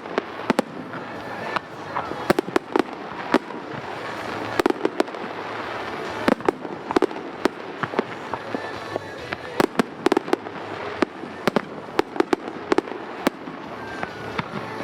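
Aerial fireworks shells bursting with sharp bangs in quick, irregular succession over a steady background haze.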